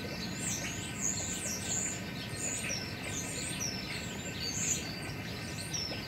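Small birds chirping: a quick, continuous run of short high chirps and falling whistles.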